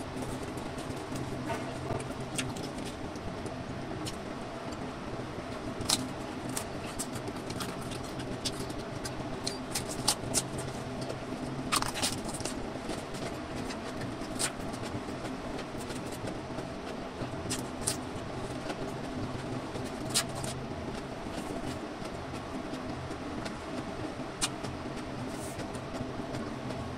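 Eating sounds: chewing and crunching of food, with scattered sharp mouth clicks and crunches, over a steady machine-like hum.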